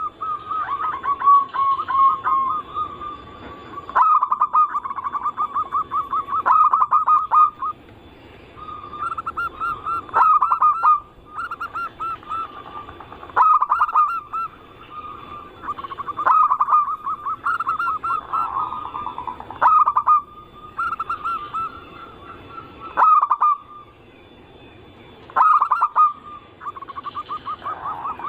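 Zebra doves (perkutut) cooing: rapid trilled phrases pitched near 1 kHz, one every two to three seconds, of the kind played as a lure to draw other perkutut.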